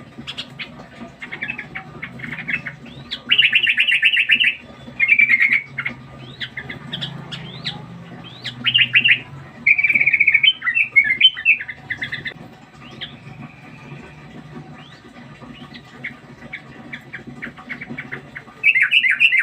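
Yellow-vented bulbul (trucukan) chattering: several loud bursts of rapid repeated notes, with scattered short chirps in between.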